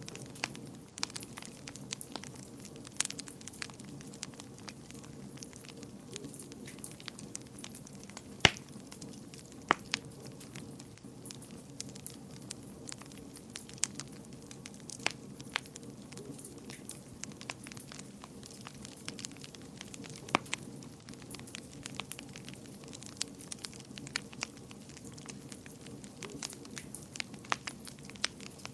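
Wood fire burning in a fireplace: a steady low flame rumble with irregular sharp crackles and pops, one louder pop about eight seconds in.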